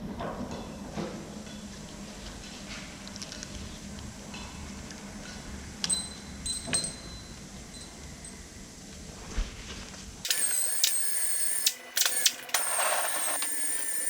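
Hand tools clicking and clinking on metal while the valve clearances of an Iveco Cursor 13 engine are adjusted, with a couple of ringing clinks about six seconds in. About ten seconds in the sound changes suddenly to sharper, busier clicking over a high steady whine.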